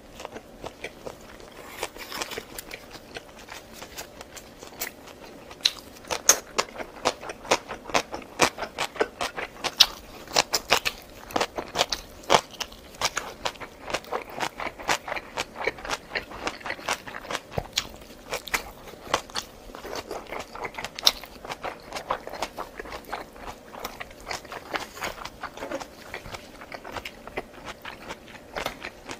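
A person eating close to the microphone: repeated biting, chewing and crunching, heard as many quick, irregular clicks and smacks.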